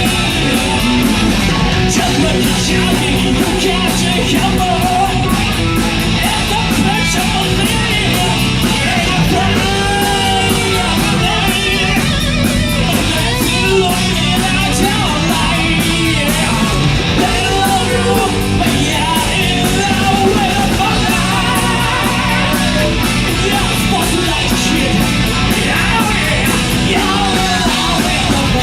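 Hard rock band playing live, with electric guitar, bass and drums and a singer's voice over them.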